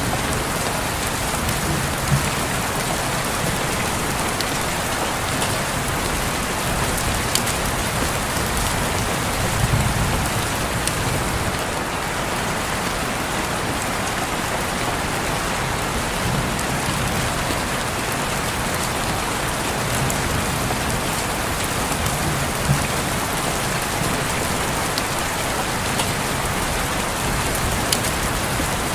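Steady rain pattering on a window, an even hiss with a few sharper drop ticks now and then.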